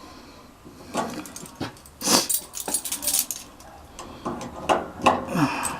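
Bunch of keys jangling and clinking in short bursts, busiest about two to three seconds in, with a few more clinks near the end.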